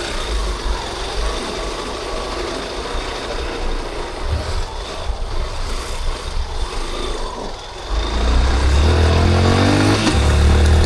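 Street traffic noise for several seconds, then about eight seconds in the Yamaha Crosser 150's single-cylinder engine gets louder and accelerates, its pitch climbing, dipping once, and climbing again.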